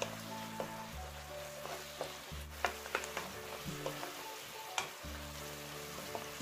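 Garlic scapes sizzling in oil, soy sauce and syrup in a pan over medium-low heat while a wooden spatula stirs them, with a few sharp clicks of the spatula against the pan. Soft background music with held notes plays under it.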